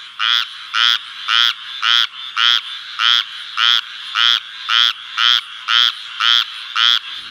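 Frog croaking over and over, about two short croaks a second, each a quick rattling call.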